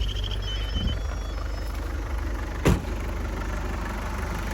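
Isuzu 3.1 turbo diesel engine idling steadily just after being started. A high beeping warning tone fades out about a second in, and there is a single sharp knock partway through.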